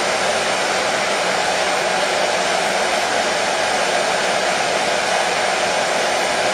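Hair dryer running steadily: an even, unbroken whoosh of fan and blowing air with a strong midrange hum, used as soothing white noise for babies.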